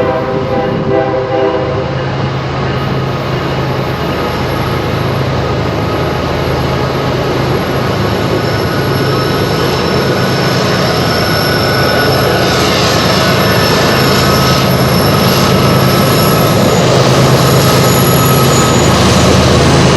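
Train passing on the railway line. Its horn sounds briefly at the start, then the running of the locomotive and wagons grows steadily louder.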